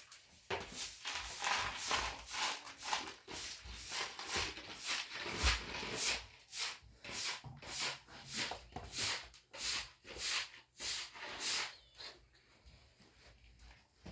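Rhythmic scraping strokes, about two a second, that stop near the end.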